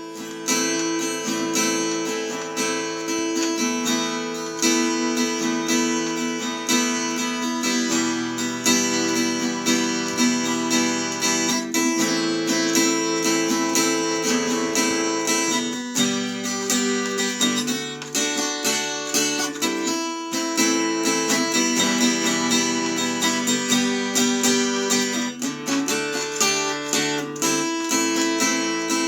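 Strummed acoustic guitar music, steady throughout with chord changes every few seconds.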